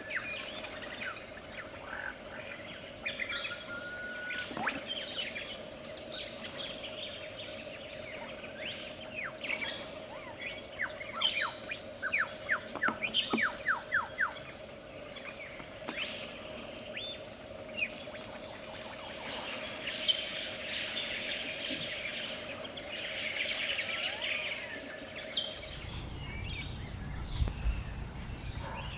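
A lyrebird singing a varied song of whistles, chirps and fast runs of descending notes, typical of its mimicked medley of other birds' calls. A steady hum runs underneath until near the end, when it gives way to a low rumble.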